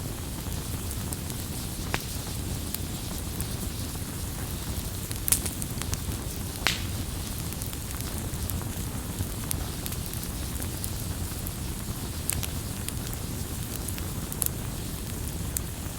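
Wood campfire crackling: a steady low rumble of burning with scattered sharp pops, the loudest snaps coming about five and seven seconds in.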